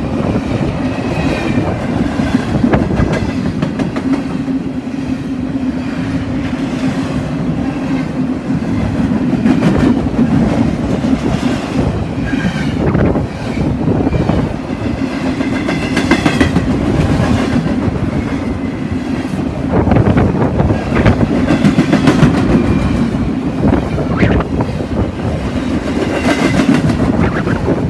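A BNSF freight train's cars rolling past close by: a steady heavy rumble with the clickety-clack of steel wheels over the rail joints, and now and then a brief high squeal.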